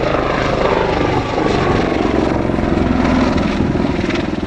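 Army Air Corps display helicopter flying an aerobatic routine: the rapid chop of its rotor blades over the steady noise of its turbine engine.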